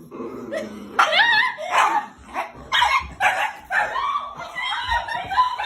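A dog yelping and barking in a run of high-pitched cries, ending in a longer, drawn-out cry.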